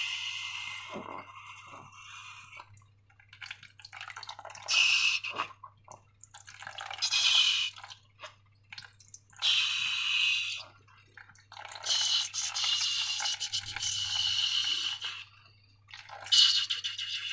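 Wet slime squelching and squishing in about six separate bursts of a second or so each, with short pauses between them. A steady low hum runs underneath.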